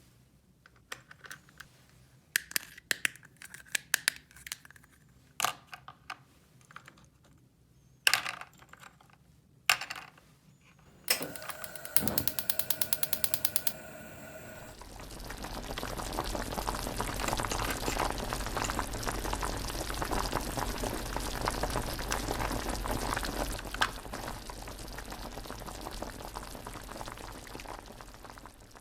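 Light plastic clicks and taps. About eleven seconds in comes a fast, even run of clicks with a faint tone. Then a steady rushing noise like running water, with a low hum under it, lasts until near the end.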